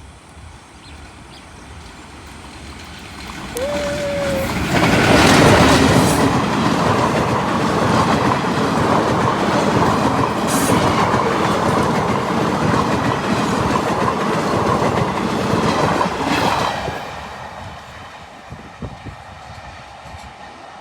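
Train passing close by: rumble and clatter of wheels over rail joints build up over a few seconds, run loud and steady for about ten seconds, then fall away quickly. A short horn note sounds just before the train arrives.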